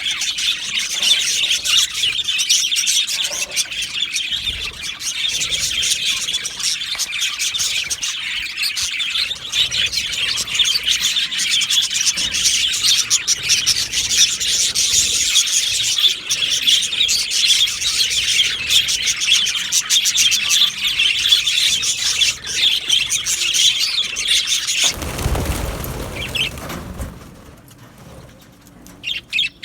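A flock of budgerigars chirping and chattering continuously, many high chirps overlapping. About 25 seconds in, the chatter gives way to a short rush of noise, then only a few sparse chirps.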